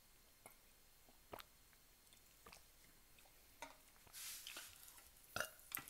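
Quiet eating sounds: scattered soft mouth clicks and smacks of chewing, a short breathy rustle about four seconds in, and two louder smacks near the end.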